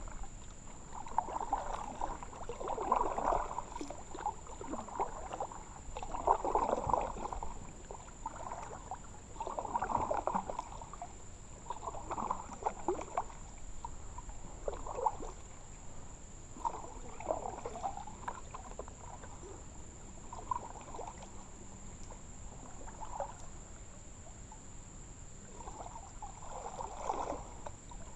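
Kayak paddle strokes dipping and splashing in river water, one stroke every two to three seconds, softer in the second half.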